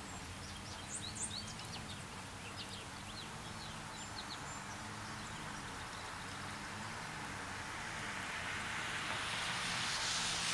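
Ambient soundtrack hiss over a low hum, with a scatter of short high chirps in the first few seconds and a rushing noise that swells near the end.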